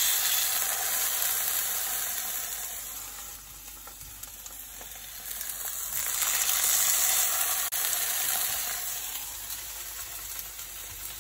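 Salmon fillets sizzling in hot oil in a frying pan as they are laid in one after another. The sizzle is loudest at the start and again around six seconds in, easing off in between.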